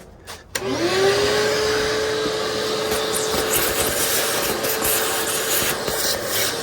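Vacuum cleaner switched on with a click about half a second in, its motor whining up to a steady pitch over a loud, even rush of air as it sucks up dust.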